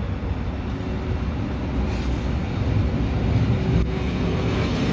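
Rhaetian Railway Ge 4/4 II electric locomotive rolling past at low speed at the head of a passenger train. Its low rumble of running gear on the rails grows louder as it draws level.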